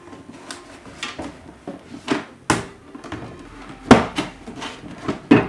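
Gift box being closed on a counter: the lid is handled and pressed down, with several sharp knocks and taps, the loudest about four seconds in.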